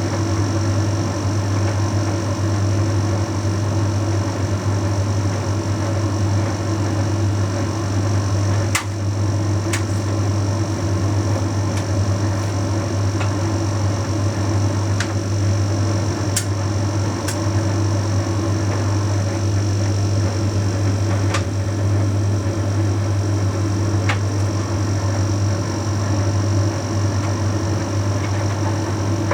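Bosch Series 6 heat pump tumble dryer running mid-cycle: a steady drone of the drum motor and heat-pump compressor with a deep hum and a faint high whine, and a few sharp clicks from the tumbling load.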